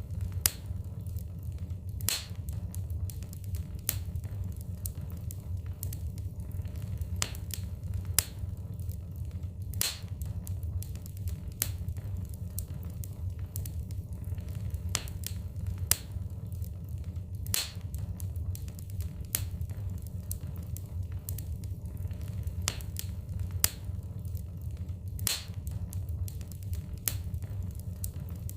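Wood fire burning in a fireplace: logs crackling with irregular sharp pops, over a steady low rumble of the flames.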